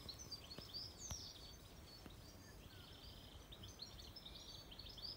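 Faint birdsong of scattered short chirps and whistles over a quiet, steady background hiss of open countryside.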